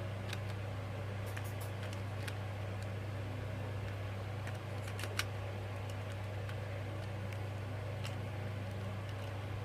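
A steady low hum, with a few faint clicks and taps of small plastic toy parts being handled and fitted together; the sharpest click comes about five seconds in.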